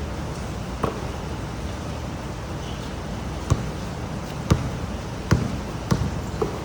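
Pouring rain, a steady hiss, with about six sharp knocks at irregular intervals, like heavy drops striking a hard surface.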